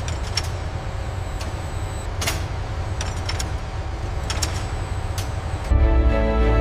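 Steady low rumble of factory machinery with scattered sharp metallic clicks and clanks, about one a second. Music comes in near the end.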